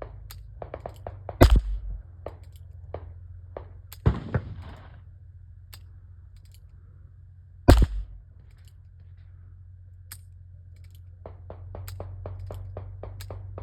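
Rough Rider .22 LR single-action revolver firing two loud shots about six seconds apart, with a lesser thump between them. Many light metallic clicks of the hammer being cocked and the cylinder turning run through the sound, with a quick run of them near the end. Some of those clicks may be the hammer falling on rounds that fail to fire, the misfiring the gun is known for.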